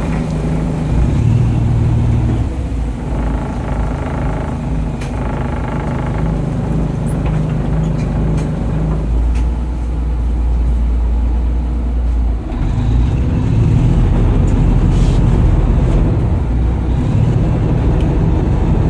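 Fishing boat's engine running steadily, a loud low drone with a few light clicks.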